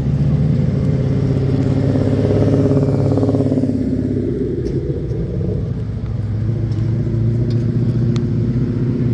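Car engine rumbling at low speed as cars pull out of a lot. About two to four seconds in, a higher sound sweeps down in pitch over the steady rumble.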